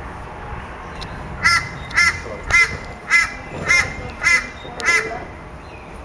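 A bird calling seven times in an even series, one call about every half second, over low background noise.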